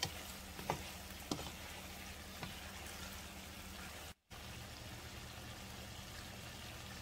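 Chicken pieces, onions, tomatoes and mushrooms sautéing in a pan with a faint, steady sizzle. A few light knocks of a silicone spatula against the pan come in the first half, and the sound cuts out briefly about four seconds in.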